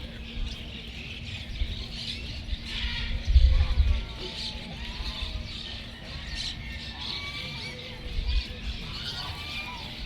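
Birds chirping and twittering in the background, with faint distant voices and a steady low hum. A brief low rumble comes about three and a half seconds in.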